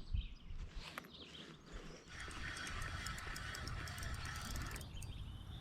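Fishing reel being cranked: a steady whir with rapid fine clicking that starts about two seconds in, after a few faint knocks.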